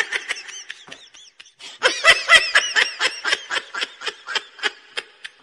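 A person giggling in a rapid run of short, high-pitched bursts, faint at first and louder from about two seconds in.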